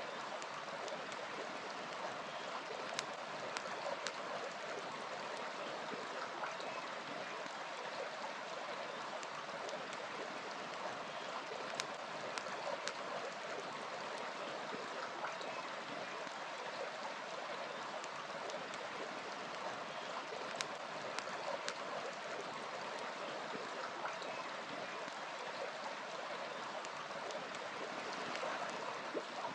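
Steady rush of a flowing river, with a few scattered sharp crackles and pops from a burning wood fire.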